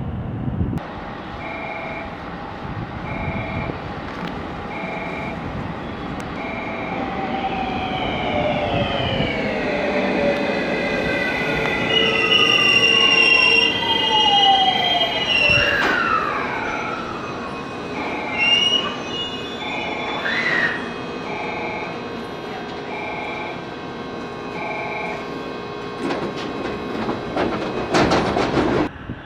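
Electric train pulling in at a platform, its motor whine falling in pitch as it slows, with short wheel or brake squeals. A two-note electronic beep repeats about once a second throughout, and there is some clatter near the end.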